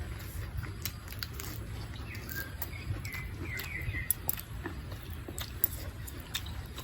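A bird chirping, a quick run of short chirps about two to four seconds in, over a low steady background hum with scattered small clicks.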